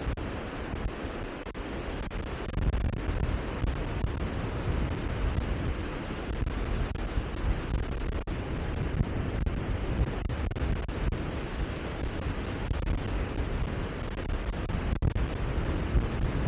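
Wind rushing over the microphone: a steady rushing noise, heaviest in the low end, that gusts a little without any rhythm.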